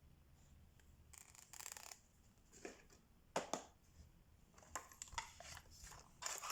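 Diamond-painting supplies being handled: a scraping rustle lasting about a second, then a string of small, sharp taps and clicks.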